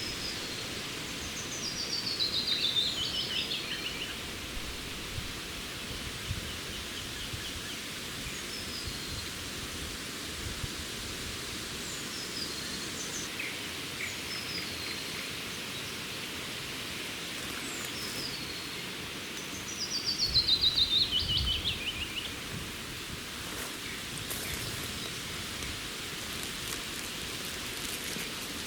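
Songbirds singing in a pine forest: two loud song phrases, each a descending run of rapid notes lasting about two seconds, come near the start and again about twenty seconds in, with short scattered chirps in between. A steady hiss of background noise lies under it all.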